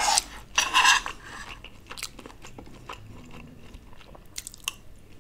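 Close-miked chewing of sabudana pulao, with faint clicks and scrapes of a metal spoon. Two short hissing sounds in the first second are the loudest part.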